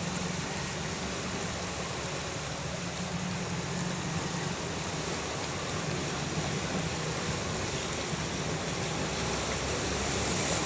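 Floodwater rushing: a steady wash of noise with a low hum running beneath it.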